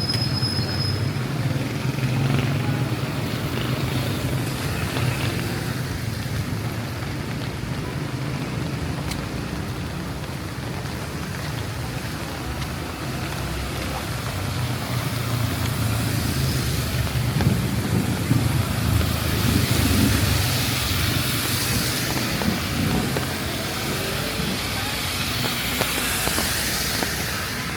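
Street traffic on wet roads in the rain: a steady low engine rumble, with the hiss of tyres on wet pavement swelling as vehicles pass in the second half.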